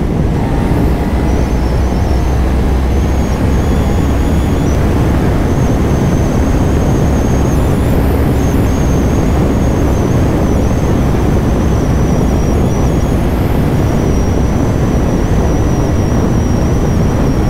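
Kawasaki Ninja 500 parallel-twin engine running steadily under way, with heavy wind rush on the rider's microphone.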